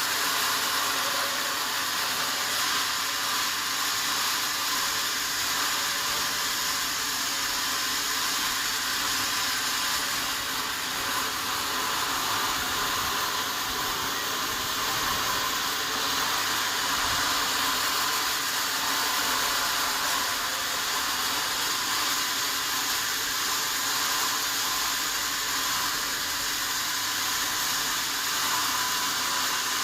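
Sawmill saw running through wadang wood, a steady hiss with no breaks.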